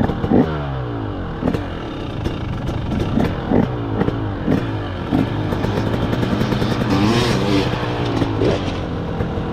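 Dirt bike engine revving down to a steady idle just after the start, with a short rev that rises and falls about three-quarters of the way through, and scattered sharp clicks and clatter.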